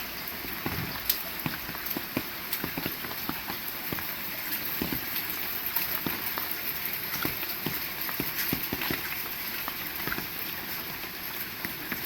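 Heavy rain falling steadily, with many sharp drops ticking and pattering on nearby surfaces.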